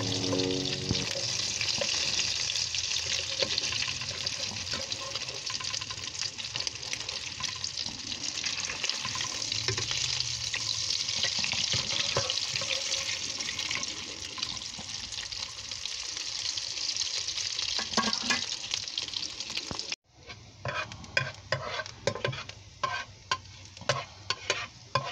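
Fish fritters deep-frying in hot oil in a pan, a loud, steady sizzle with the occasional scrape of a metal spatula. About 20 s in it cuts to a quieter sizzle of garlic frying in oil, broken by repeated scraping strokes of the metal spatula against the pan.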